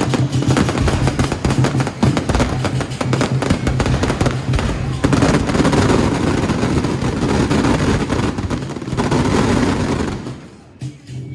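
Dense, rapid crackling of firecrackers going off as a salute, with music faintly underneath; the crackling stops about ten seconds in and the music is left.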